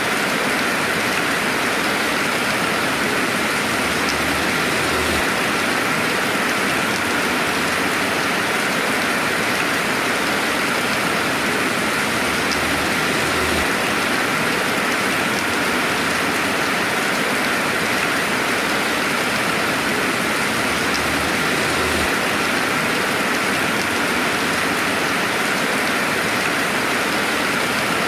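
Steady rainfall: an even, unbroken hiss of many drops, with no thunder. A faint low rumble comes and goes a few times.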